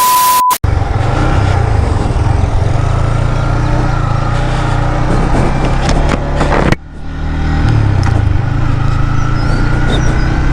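A short beep over a burst of noise, then a Yamaha MT-15's single-cylinder engine running steadily with a low exhaust rumble. The sound cuts off abruptly about two-thirds of the way through and then picks up again.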